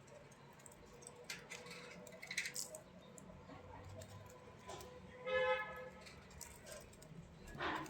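Pet budgies chirping and chattering in short calls among small scratchy clicks, with one louder call about five seconds in and another near the end.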